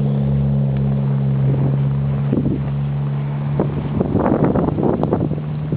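An engine running steadily with a low hum, with wind buffeting the microphone in gusts in the second half.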